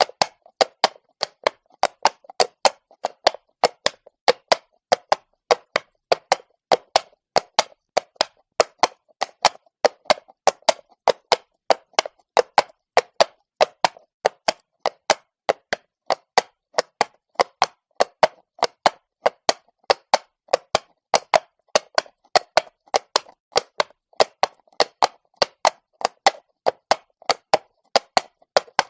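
Horse walking on stone, its hooves striking in an even, unbroken clatter of sharp clicks about three a second.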